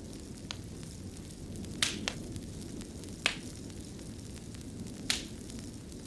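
Wood fire crackling in a fireplace: a low steady rumble of burning logs with five sharp pops, the loudest about two, three and five seconds in.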